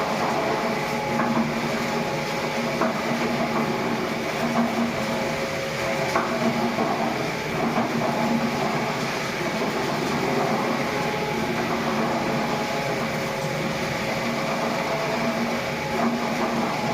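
Steady machine noise, running evenly, with faint hums that come and go.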